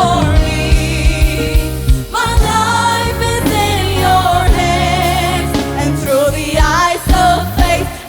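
Live gospel worship music: a lead voice singing long, wavering notes over a band with bass and a steady drum beat.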